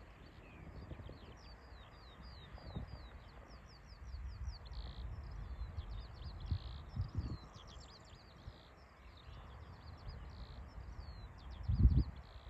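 Songbird singing in a continuous stream of rapid high chirps and trills, over low wind rumble on the microphone that swells into a louder gust near the end.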